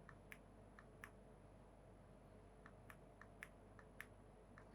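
Near silence: quiet room tone with a few faint, irregularly spaced clicks.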